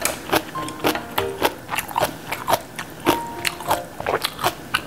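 Crisp napa cabbage kimchi crunched and chewed close to the microphone, about three or four sharp crunches a second, over soft background music.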